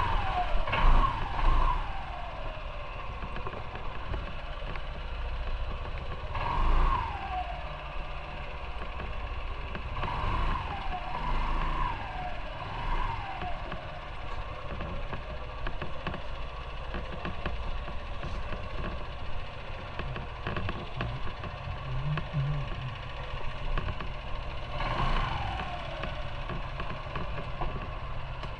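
Motorcycle engine running with steady wind and road rush, as heard from the rider's seat. Several times the engine note falls away, as when the throttle is rolled off or the rider shifts gear.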